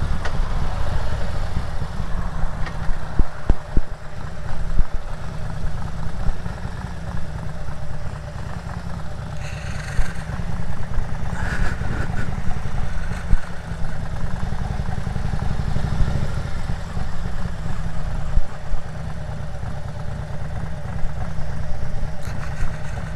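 Motorcycle engine running steadily at low speed, with a couple of brief higher-pitched noises near the middle.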